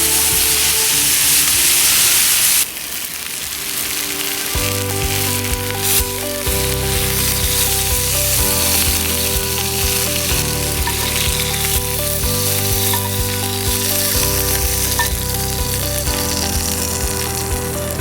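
Beef tongue sizzling as it fries, loud for the first two or three seconds and then quieter. Background music comes in after about four seconds.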